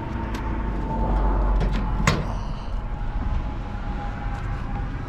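Hood of a 1966 Ford Mustang being opened: a few light clicks, then one sharp metallic clunk from the hood latch about two seconds in, over a low rumble.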